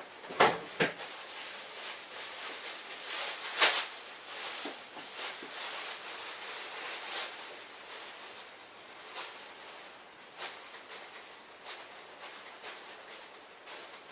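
Rummaging and handling of small household objects: two sharp knocks close together, a louder clack a few seconds later, then scattered light clicks and rustling.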